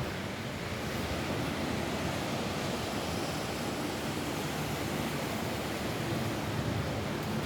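Steady rain falling on a roof, an even hiss with no distinct drops or pauses.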